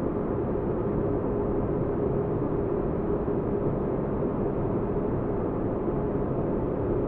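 Sci-fi spaceship interior ambience: steady white noise with deep bass, a low rumbling hum with a faint held tone above it and nothing bright or high. It does not change.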